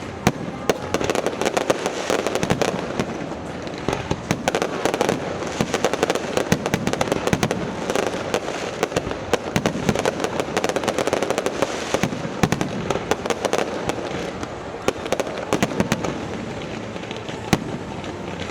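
Fireworks display going off: a dense, irregular stream of sharp bangs and crackles, many per second, over a continuous rumble.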